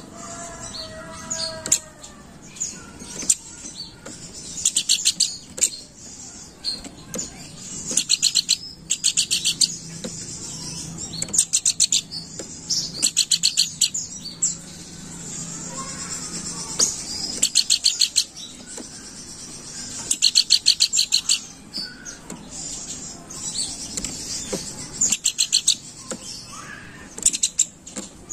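Pelanduk bukit, a babbler, giving its chattering song: about a dozen bursts of very fast, high-pitched repeated notes, each lasting about a second, with short gaps and softer calls between them.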